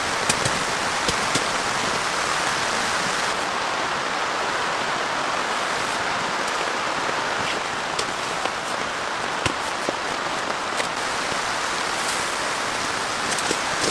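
Heavy rain falling steadily, a dense even hiss with scattered sharp drop taps.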